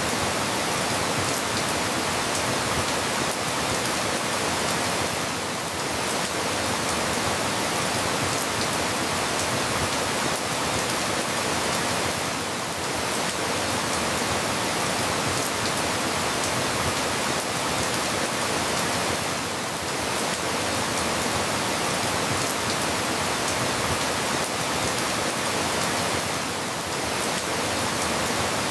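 Steady rain falling, a dense even hiss with no separate drops standing out. There is a slight lull about every seven seconds.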